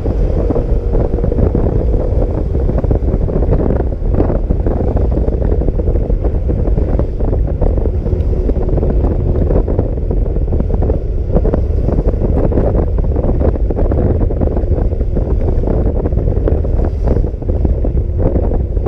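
Wind buffeting the microphone of a moving motor scooter: a steady, loud rushing rumble that buries the engine.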